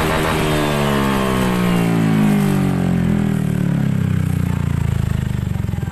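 Honda ADV scooter's single-cylinder engine running through a Triton Neuro carbon-kevlar full-system exhaust, its revs falling steadily off after a blip. Near the end it settles into idle, with the separate exhaust pulses plainly heard.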